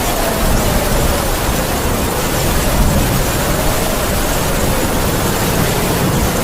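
Heavy rain falling steadily with a howling wind, its whistling pitch wavering slowly up and down.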